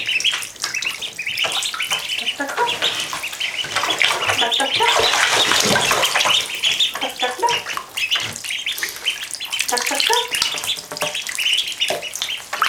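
Week-old Indian Runner ducklings peeping over and over while they splash and paddle in shallow water, the splashing heaviest around the middle.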